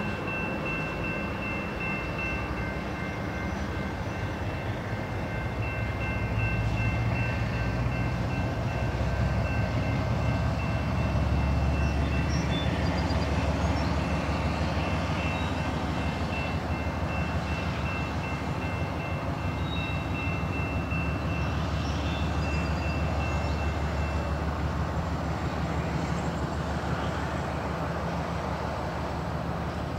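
Freight train at low speed, the locomotive's diesel engine rumbling, building from about six seconds in and then easing. A steady high-pitched ringing tone runs over it and stops about four-fifths of the way through.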